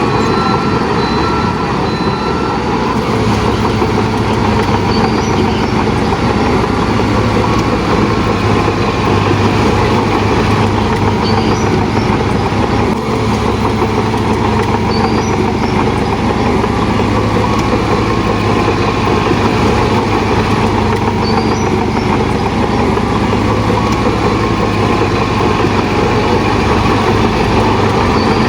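Heavy diesel earthmoving machinery running steadily, with a few short beeps near the start.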